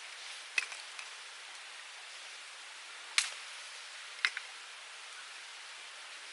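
Wood fire burning in a small UNIFLAME Nature Stove, popping sharply a few times over a steady hiss, the loudest pop about three seconds in.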